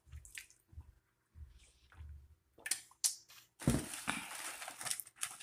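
Close-miked eating noises: small mouth clicks and chewing, then a sudden stretch of rustling noise lasting about a second and a half just past the middle.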